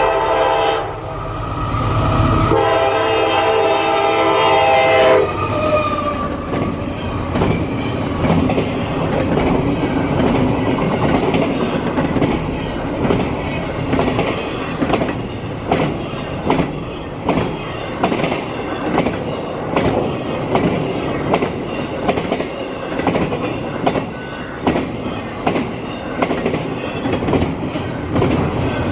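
CSX freight train: the locomotive horn blows a short blast, then a longer one that ends about five seconds in, and then the train's cars roll past with a regular clack of wheels over rail joints, about one clack a second.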